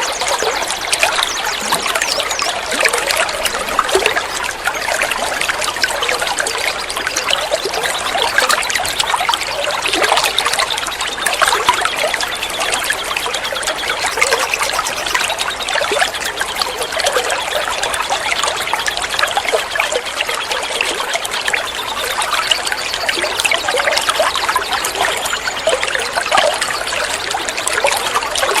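Water trickling and splashing steadily, a continuous babbling flow.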